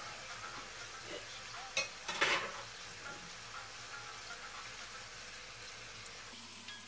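Potato wedges frying in oil in a nonstick pan, with a steady sizzle. There is a brief clatter about two seconds in.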